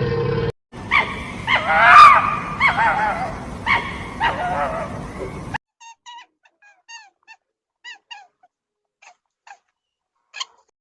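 A dog whining and yelping in a run of short calls that bend up and down in pitch. About halfway through it cuts off abruptly, and a few faint, short, high chirps follow at irregular intervals.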